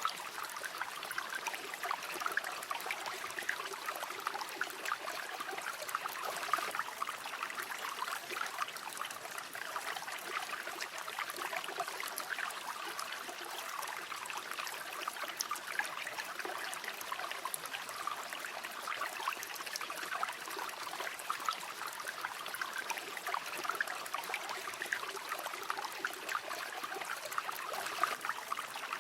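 Shallow river or stream flowing steadily, a continuous babble and trickle of running water with many small splashes.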